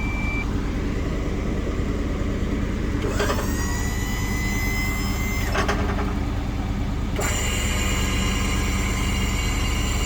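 Truck engine idling steadily while the remote-controlled electric service crane starts up. About three seconds in, a click and a motor spinning up into a steady whine that stops with another click; a second, higher motor whine starts about seven seconds in and keeps going.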